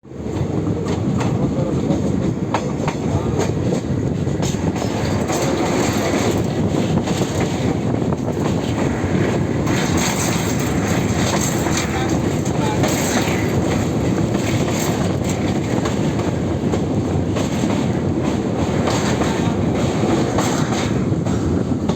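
A moving vehicle running with a steady low rumble and irregular clacks and rattles.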